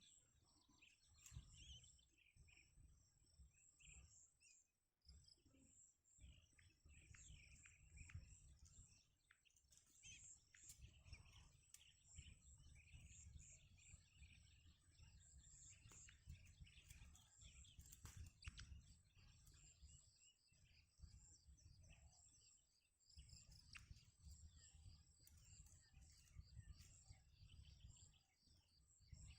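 Faint, scattered short high bird chirps over a low, uneven rumble.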